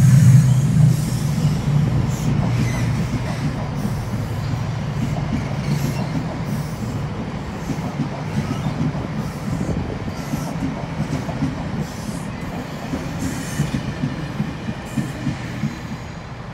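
Chiltern Railways diesel passenger train pulling out and rolling past along the platform: a low drone with wheel noise on the rails, fading steadily as the last coach goes by.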